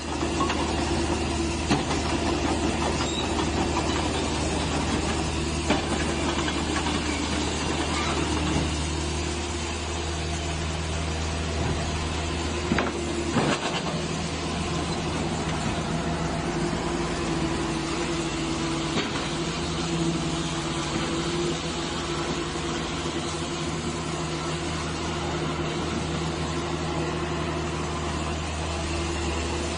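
Komatsu PC128US excavator's S4D102E diesel engine running steadily, with a few short knocks, two close together about 13 seconds in.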